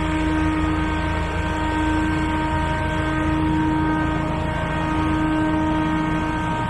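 Landscaping equipment engine running steadily at constant speed, with a steady hum and a fixed whine.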